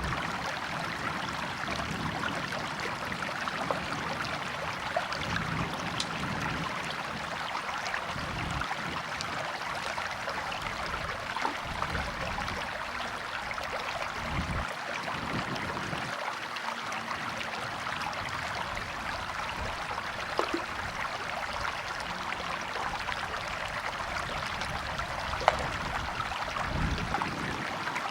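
A river or stream flowing over rocks: steady rushing and splashing, with uneven low gurgles and one sharp tick near the end.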